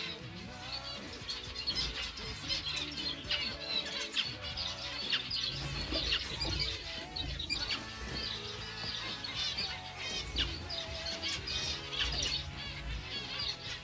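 Many small birds chirping and twittering continuously over background music.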